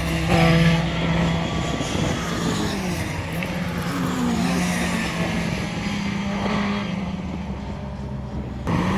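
Rally car engine running and revving, its pitch rising and falling, with a louder burst about half a second in and a sudden jump in level near the end.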